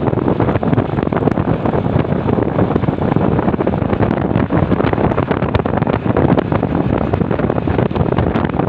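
Loud, steady wind buffeting on the microphone of a moving motorcycle, with road and traffic noise underneath.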